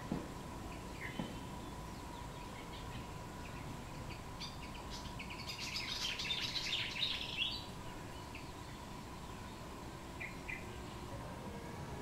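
Wild songbird calling: a dense, rapid run of short high chirps for about three seconds in the middle, with a few single chirps before and after. A faint steady high tone runs underneath.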